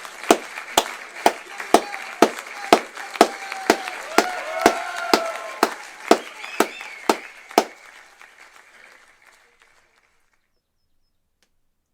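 Audience applause and cheering after a live jazz-fusion band performance, with a sharp, even clap about twice a second over the crowd's clapping and a few whoops. It fades away about eight seconds in, then goes silent.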